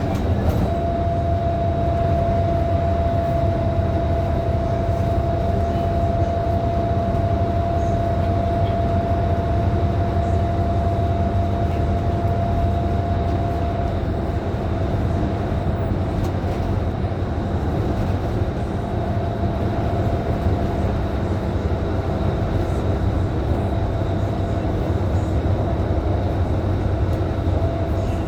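Interior of a Scania K310IB bus under way at steady speed: its engine, drivetrain and road noise make a constant low rumble, with a steady whine over it that fades out for a few seconds in the middle and returns.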